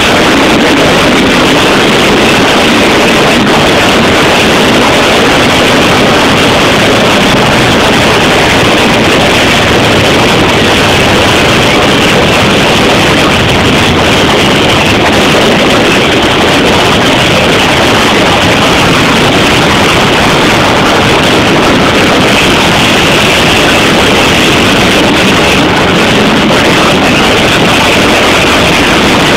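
Loud, steady rushing noise of the Nilgiri Mountain Railway passenger train running, heard at an open carriage window with wind on the microphone.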